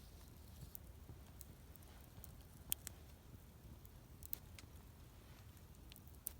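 Campfire wood crackling faintly, with sparse, irregular sharp pops; the loudest come a little under halfway in and again about two-thirds through, over a low steady rumble.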